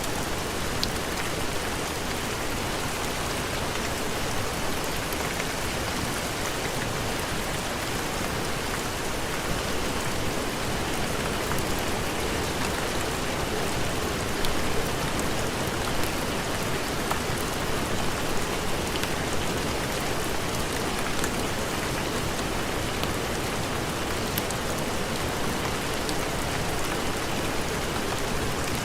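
Heavy rain falling steadily: an even hiss with scattered small ticks of drops.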